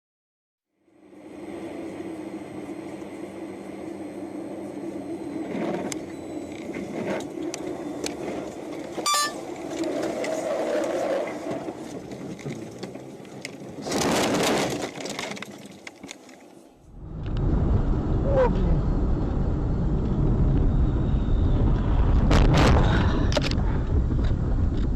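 Car engine and road noise from a moving vehicle, with a few sharp knocks and a loud burst of noise about 14 seconds in. A cut about 17 seconds in changes it to a heavier low rumble.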